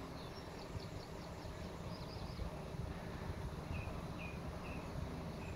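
Small birds chirping: a quick run of short high chirps, then a few lower chirps about half a second apart, over a low, uneven rumble of wind on the microphone.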